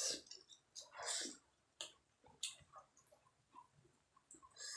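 Faint close-up eating sounds: chewing and mouth smacks with scattered soft clicks, as fried chicken is handled and eaten.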